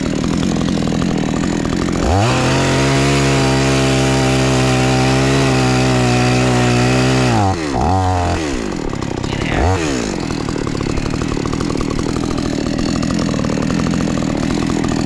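A two-stroke petrol chainsaw cutting hard wood. It idles, revs up to full throttle about two seconds in and holds steady for about five seconds, then drops back. Two short blips of the throttle follow before it settles to a rough idle.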